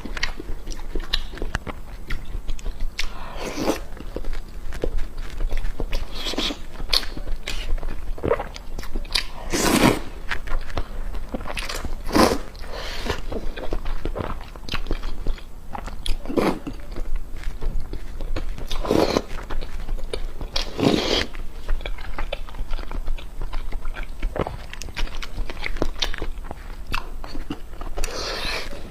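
A person eating close to the microphone: repeated bites and chewing with crunching, in irregular bursts every second or two, some louder than others.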